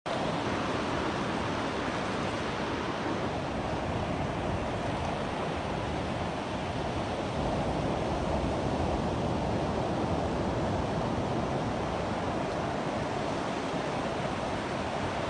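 Ocean surf: waves washing and breaking in a steady, continuous rush, growing a little louder about halfway through.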